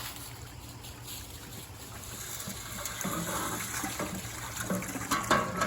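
Water sloshing and pouring as sluice concentrate is washed out, growing louder about halfway through, with a couple of sharp knocks near the end.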